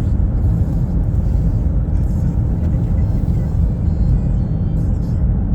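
Steady low rumble of a car on the move: road and engine noise heard inside the cabin.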